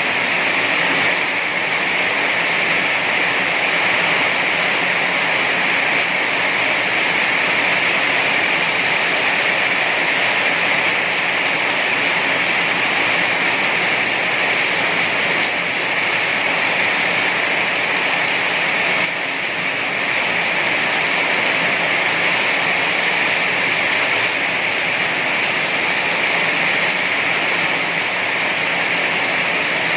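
Heavy rain falling in a steady, dense hiss, with a slight brief dip about two-thirds of the way through.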